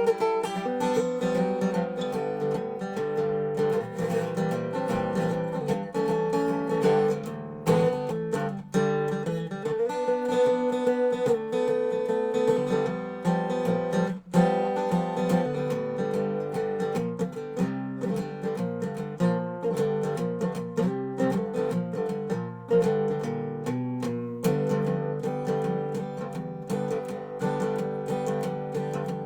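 Dobro resonator guitar played solo, a continuous run of plucked notes in a blues jam.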